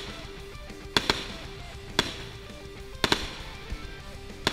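Fireworks going off as sharp bangs, some in quick pairs, at irregular gaps of about a second, over music with short held notes.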